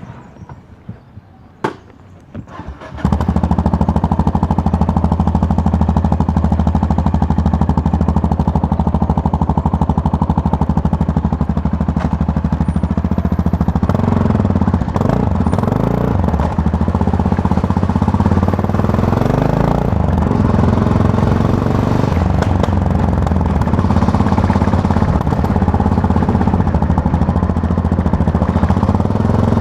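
Yamaha MT-03 parallel-twin engine heard from the rider's seat on the move. After about three quieter seconds with a few sharp knocks, the engine comes in loud and steady. Its revs rise and fall several times in the middle.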